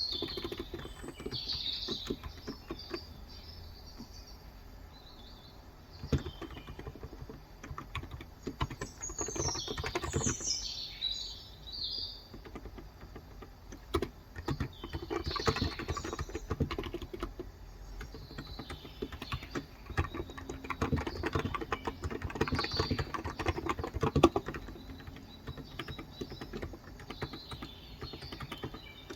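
Typing on a Cox Endeavor 35 g electro-capacitive (contactless) tenkeyless keyboard: a steady stream of key presses that comes in denser runs. Birds chirp outside at intervals over the typing.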